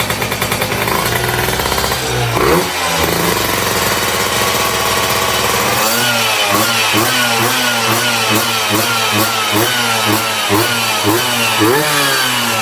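Vespa's two-stroke engine with a Quattrini 144 cylinder kit running: a steady idle, one rev a little over two seconds in, then from about six seconds in a quick series of repeated throttle blips.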